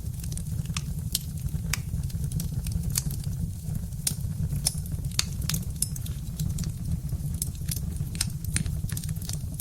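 Birch-wood fire crackling, with frequent irregular sharp pops over a steady low rumble of burning.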